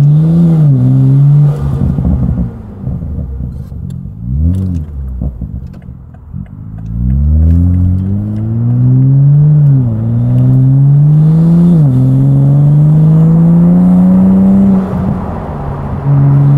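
Toyota GR Supra's 3.0-litre straight-six engine with an aftermarket titanium single-exit exhaust, accelerating hard through the gears. The engine note climbs and then drops sharply at each upshift, three times in the second half, after a brief blip of revs near the start.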